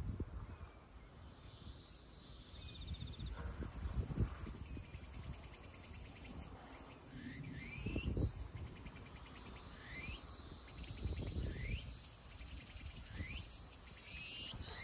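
From about six seconds in, a bird gives a short rising call roughly every second and a half. Under it run a faint steady high hiss and a few low rumbles.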